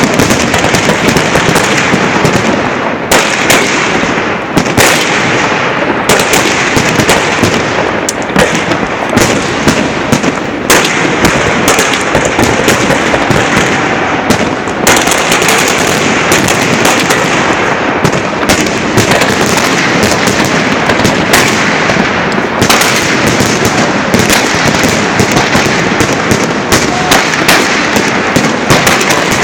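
Fireworks salute launchers firing a dense barrage, with sharp bangs and crackling shell bursts following one another closely and without a break.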